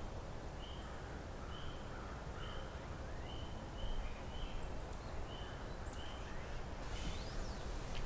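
Forest ambience: a small bird repeats a short, high note about once or twice a second, with a few fainter, higher chirps, over a steady low background hiss.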